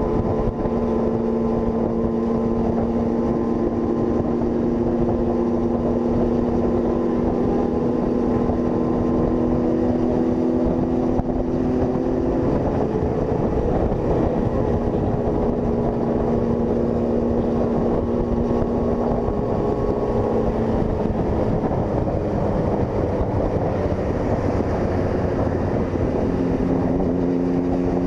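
Honda CG 160 Fan's single-cylinder four-stroke engine running at a steady cruise under way, the pitch holding for long stretches and dropping lower near the end.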